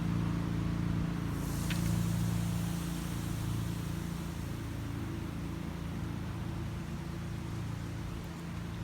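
Soda fizzing and foaming out of the bottle in a Mentos-and-soda eruption: a hiss that swells about a second in and then fades. Under it runs a steady low hum.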